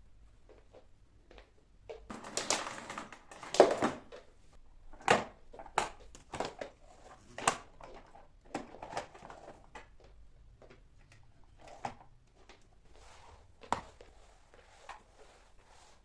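Household items handled during cleaning: a rustle lasting about two seconds, then a series of sharp, irregular knocks and clicks as things are picked up and set down.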